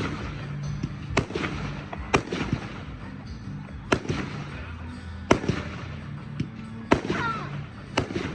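Fireworks going off: about six sharp bangs, spaced roughly a second or so apart, with crackling between them.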